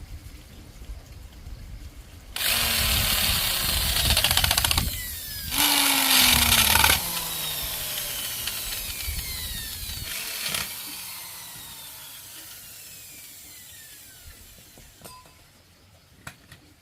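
Handheld electric power tool run in two bursts of a few seconds each. After each burst the motor winds down in a long falling whine.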